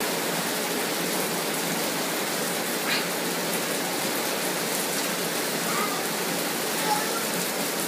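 Steady rain falling on a concrete patio: an even, continuous hiss.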